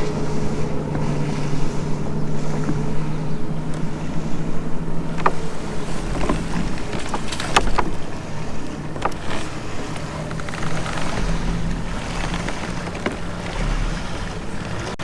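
Wind and water noise around a fishing kayak, with a steady low hum that fades after about seven seconds and a few sharp clicks.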